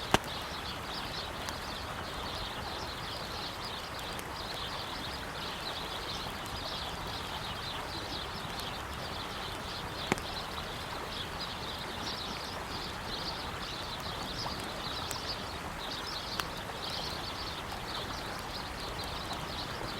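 Steady rush of a flowing river with many small birds chirping continuously, and a campfire crackling with sharp pops just after the start, about halfway through, and once more later.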